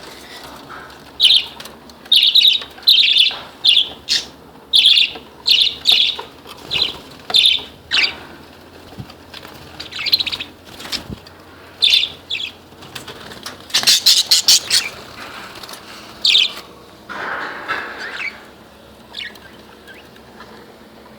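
Budgerigars chirping: a run of short, high, loud chirps one after another, with a lower, harsher call near the end.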